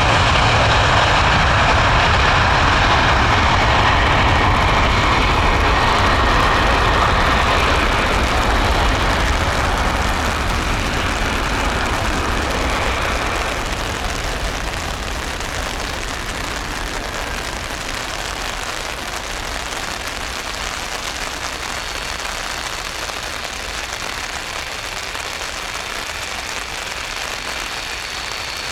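Boeing 747-400F jet engine roar fading steadily as the freighter climbs away after take-off, giving way to a steady even hiss for the second half.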